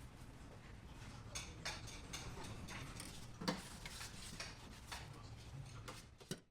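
Scattered light clicks and clinks of tableware on dishes over a low, steady room hum.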